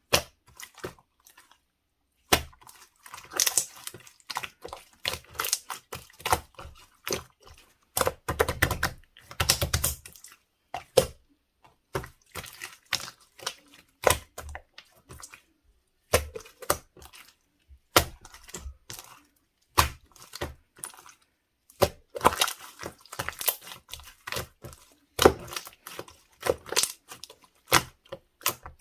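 Hands squishing, pressing and poking slime, giving irregular sticky clicks and crackling pops that come in dense runs with short pauses between them.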